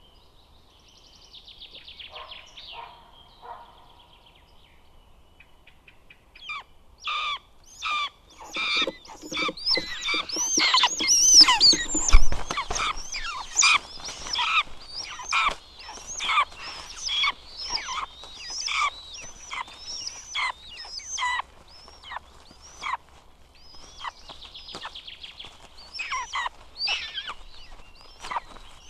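Buzzards calling: a long run of short, high, arched calls that comes thick and fast from about seven seconds in and thins out toward the end. A loud thump sounds about twelve seconds in.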